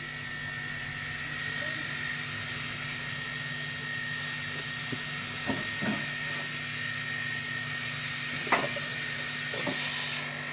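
Inverter air conditioner running: a steady hiss with a constant high whine and a low hum. A few brief short sounds come about five to six seconds in and again around eight and a half seconds.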